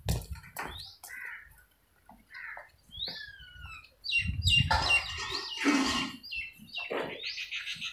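Small birds chirping: short calls that rise and fall, thickening into a busier chatter in the second half. A burst of low rumbling noise comes about halfway through and is the loudest thing here.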